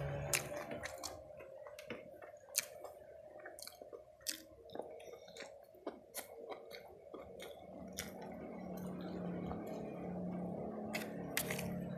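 Close-up chewing of spicy fried chicken and rice, with irregular wet smacks and sharp mouth clicks. A steady low hum runs underneath and grows a little louder in the second half.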